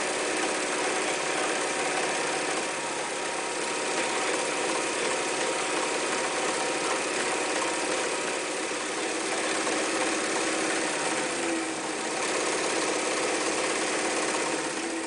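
Elna Special type 31C electric sewing machine running steadily at speed, stitching.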